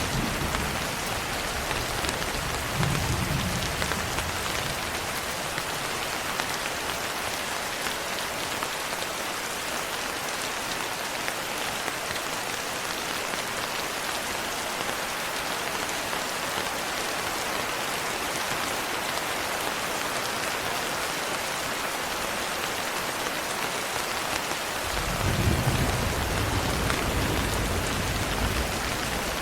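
Steady rain falling, an even hiss of drops, with a low rumble of thunder about three seconds in and a longer, louder one near the end.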